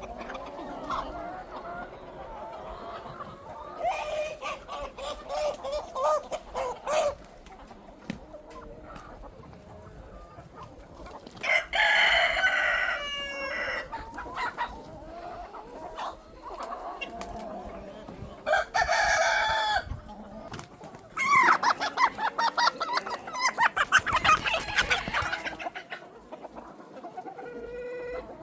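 Chickens clucking in bouts, with loud rooster crows about twelve and nineteen seconds in, and a long run of rapid clucking near the end.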